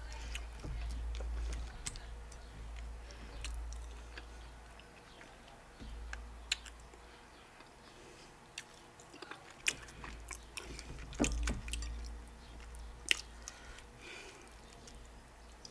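Close-miked eating sounds of okra soup and garri eaten by hand: steady chewing, with scattered sharp mouth clicks throughout.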